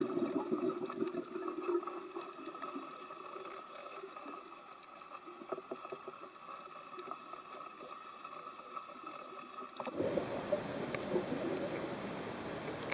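Underwater ambience picked up by a camera in its housing: a steady hum with faint scattered crackling clicks, turning suddenly louder and rougher about ten seconds in.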